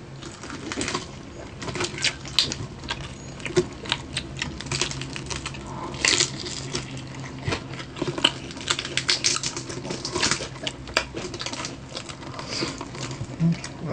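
Close-up crunching of crispy deep-fried pork knuckle (crispy pata) being chewed: a quick, irregular run of crackling crunches. A steady low hum runs underneath.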